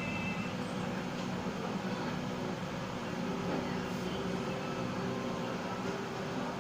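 A small electric motor humming steadily at an even pitch.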